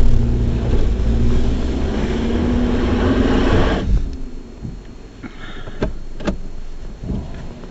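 Toyota RAV4 engine heard from inside the cabin, working hard up a snowy rocky trail, its pitch rising slightly. About four seconds in it drops off suddenly as the driver lets off the throttle, leaving quieter running with a couple of sharp knocks near the end.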